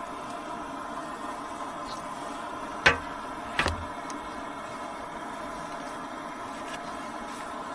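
A steady mechanical hum with a few fixed tones, broken about three seconds in by two sharp knocks, under a second apart.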